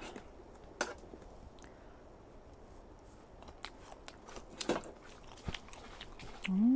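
A person chewing food close to the microphone, with a few sharp clicks and crunches spread through. Near the end comes a short humming 'mm' of enjoyment that rises and falls in pitch.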